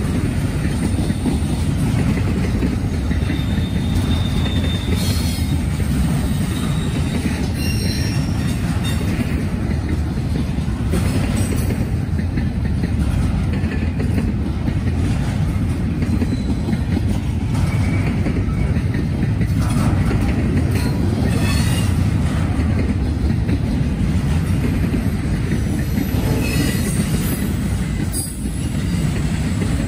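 Norfolk Southern freight train rolling past, its cars giving a steady, heavy rumble on the rails, with a few brief high wheel squeals.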